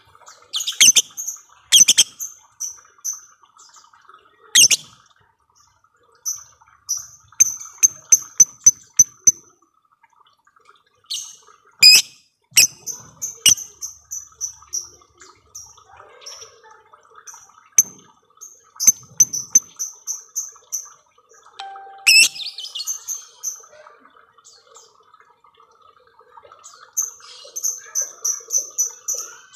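Lovebird chattering: strings of rapid, shrill, evenly repeated notes, each string lasting a second or two, broken by sharp clicks and run together in a long series.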